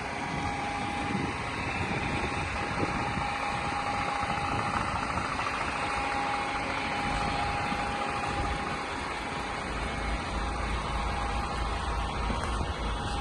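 DAF XF 480 tractor unit's diesel engine idling steadily, with a constant low rumble and a thin steady tone above it.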